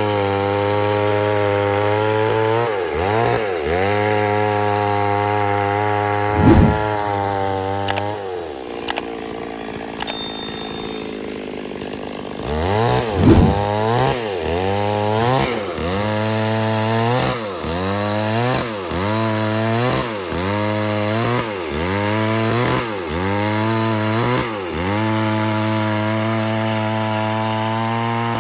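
Two-stroke chainsaw cutting wood, its engine pitch dropping and recovering about once a second as the chain bites. It eases off to a quieter run for a few seconds near the middle, then goes back to cutting. Two sharp knocks stand out, one about six seconds in and one about thirteen seconds in.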